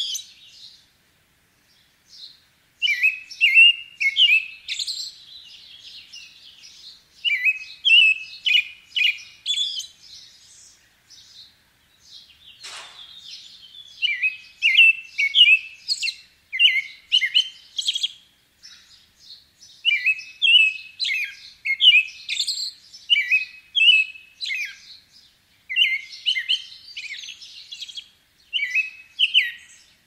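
Small birds chirping: bursts of rapid, high chirps lasting a few seconds each, with short pauses between them.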